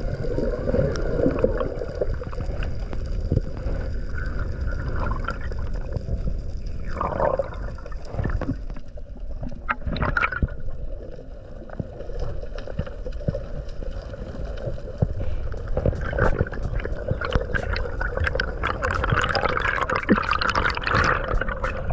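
Sea water gurgling and sloshing around the camera at or just under the surface, with scattered clicks that thicken into a run of crackles in the last several seconds.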